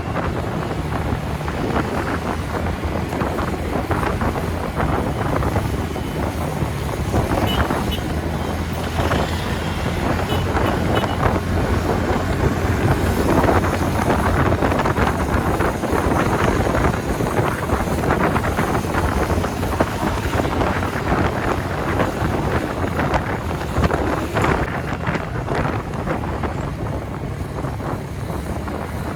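Wind buffeting the microphone while riding a TVS Ntorq 125 scooter at highway speed, over a steady low drone of the engine and road noise.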